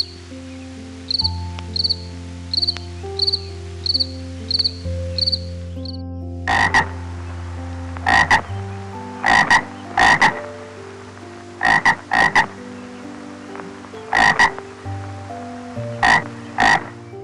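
Frogs croaking: for the first six seconds a high chirp repeats about every two-thirds of a second, then louder croaks follow, often in pairs, every second or two, over a soft, steady background of held tones.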